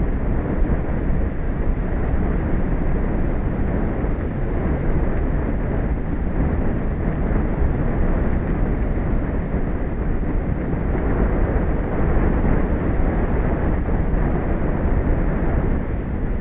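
Steady wind buffeting an outdoor microphone, a continuous low rumble with no distinct events.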